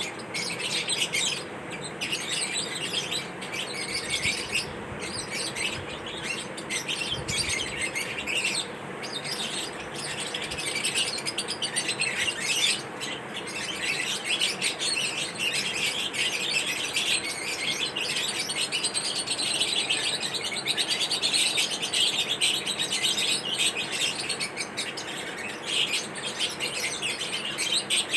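Lovebirds chirping continuously in a dense, high-pitched chatter of rapid chirps.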